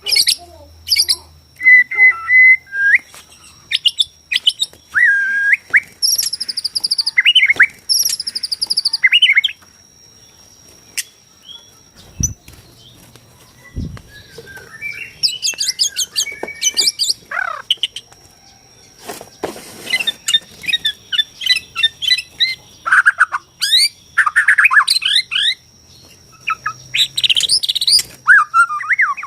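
White-rumped shama (Borneo murai batu) singing a varied song of clear whistles, quick trills and fast rattling runs, in phrases with a short lull about a third of the way in. A faint steady high tone runs underneath.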